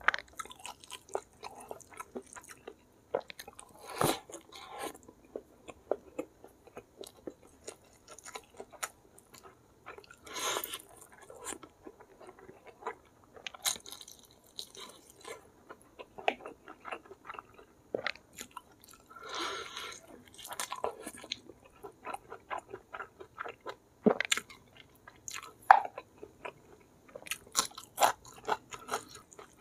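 Chewing and biting of a mouthful of goat curry and rice eaten by hand, with many irregular sharp clicks and a few louder crunchy bites.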